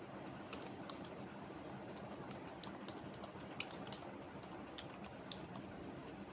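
Computer keyboard typing: irregular key clicks beginning about half a second in, over a steady low background noise.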